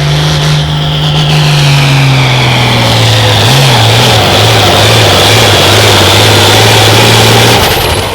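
Pulling tractor's engine running at full throttle under load as it drags the weight sled down the track; its steady note starts to waver rapidly about halfway through, then drops off sharply near the end as the pull ends.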